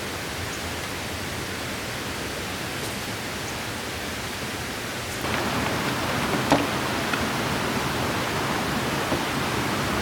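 Steady rushing of rain and a flowing mountain stream, stepping up a little about five seconds in, with a single light tap soon after.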